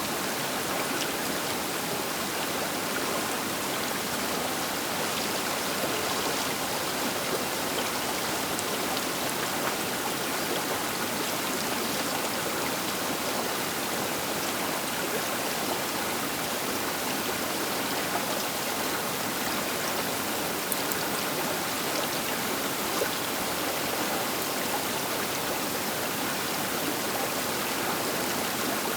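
Baker River flowing past the bank: a steady, even rush of water with faint small splashes.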